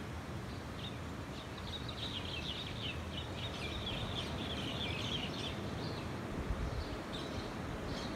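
Birds chirping in a quick chattering run for several seconds, fading out a little past the middle, over a steady low outdoor rumble of wind.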